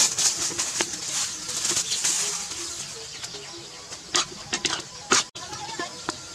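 Minced pork frying in a hot wok, sizzling and crackling, loudest in the first two seconds. A metal spatula scrapes and clacks against the wok, with the sharpest knocks about four and five seconds in.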